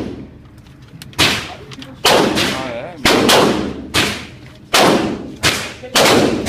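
A string of gunshots at a shooting range, about ten over six seconds at an uneven pace, each shot followed by a ringing echo tail.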